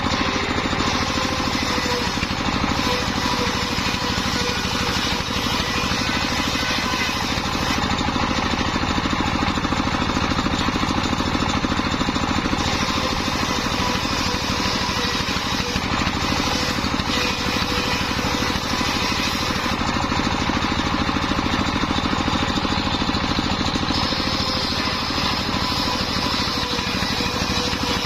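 Engine-driven circular sawmill running steadily, the engine pulsing evenly under a faint whine from the spinning blade.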